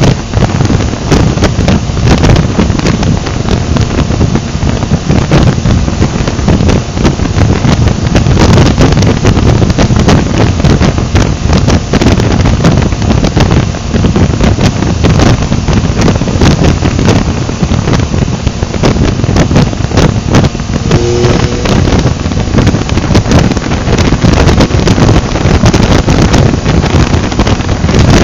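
Heavy wind noise buffeting the microphone of a motorcycle riding at speed, with a steady low rumble underneath.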